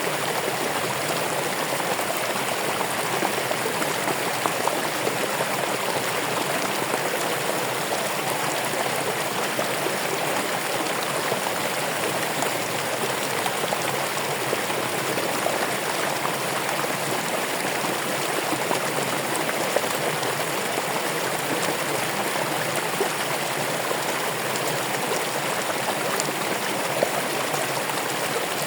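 Running water flowing steadily, an even rushing and splashing with no change throughout.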